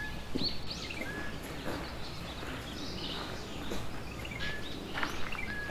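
Outdoor ambience with birds calling in short, even whistled notes repeated every second or so, over a low steady background hum, with a few sharp clicks near the end.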